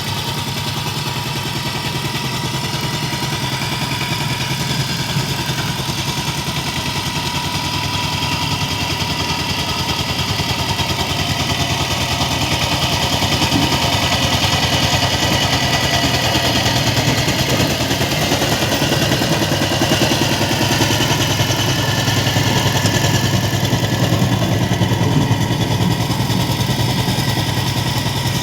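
Power tiller engine running steadily with a fast, even chugging, getting somewhat louder about halfway through.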